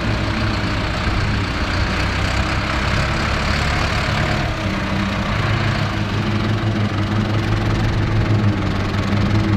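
Ford 8630 tractor's diesel engine running steadily while pulling a Mengele SH40N forage harvester, with the harvester's machinery adding a steady rushing noise. The engine note shifts slightly about halfway through.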